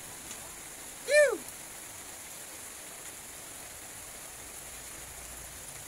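Steady hiss of rain. About a second in, one short, loud call rises and then falls in pitch.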